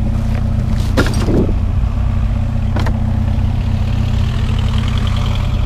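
Pickup truck engine idling steadily, with a short clatter about a second in and a single knock a little before three seconds as junk is handled.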